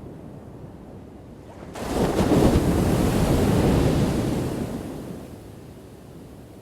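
Ocean waves on a shore: a low surf rumble, then about two seconds in a wave crashes with a sudden loud rush that dies away over the next few seconds.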